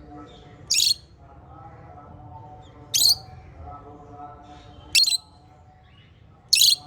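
Small pet parrots, lovebirds and budgies, calling: four short, shrill, piercing calls about two seconds apart over a softer continuous warbling chatter.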